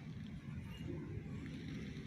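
Faint, steady low background rumble with no distinct events.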